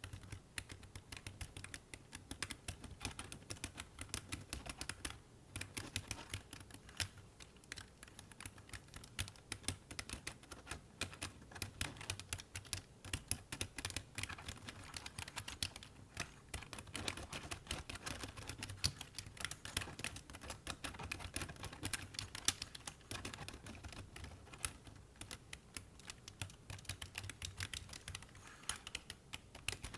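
Fast typing on a computer keyboard: a dense, irregular run of key clicks, with brief pauses here and there.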